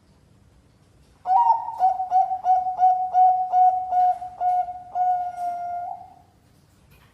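Zebra dove (Bangkok-type perkutut) song: starting about a second in, a quick run of about a dozen clear coo notes, roughly three a second, ending on a longer held note.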